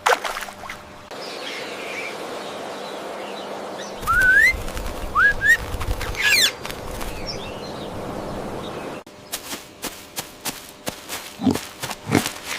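Birds, with a couple of short rising chirps about four to five seconds in and a run of quick, sharp repeated sounds from about nine seconds on.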